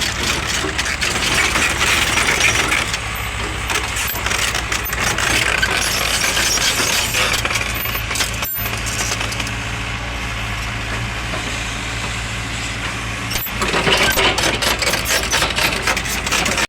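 Heavy diesel engine of a tractor or excavator running steadily, with loose metallic rattling and clinking over it that grows louder twice, near the start and near the end.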